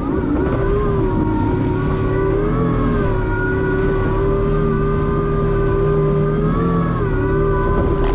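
Jet ski engine running at speed with a steady whine, its pitch lifting briefly and settling back a couple of times with the throttle, over a constant rush of noise.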